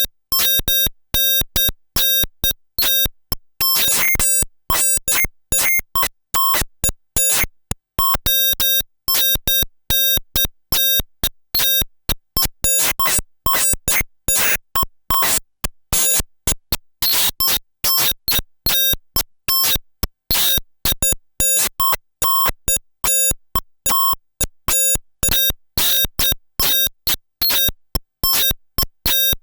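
Paratek SATURN Eurorack noise module, made with SynthWall, putting out a fast, irregular, stuttering sequence of short square-wave blips and noise clicks. The sound gates on and off several times a second, like a non-linear percussion pattern.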